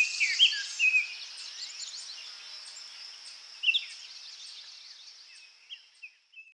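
Several birds chirping and calling in a forest, with short chirps and whistles busiest in the first second, over a steady high hiss. Everything fades out toward the end, leaving a few last chirps.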